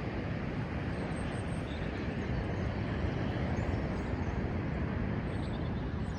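Steady roar of a rough sea, with a few faint high chirps of small birds.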